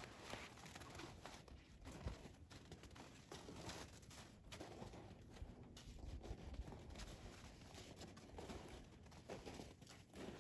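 Near silence: faint, irregular rustling and soft patter.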